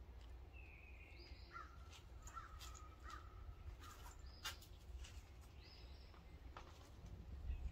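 Near silence with faint bird calls: a scatter of short chirps and whistles, some sliding quickly upward, over a low steady room hum.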